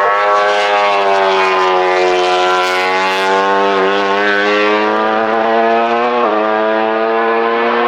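MotoGP racing motorcycle engine running at high revs, a steady buzzing note that drifts a little in pitch and steps to a new pitch about six seconds in.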